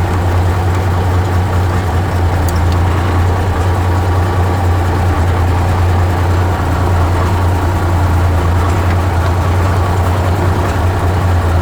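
Engine of an M818 5-ton military tractor truck idling steadily with a low, even hum, while it charges a dead truck's batteries through a slave cable.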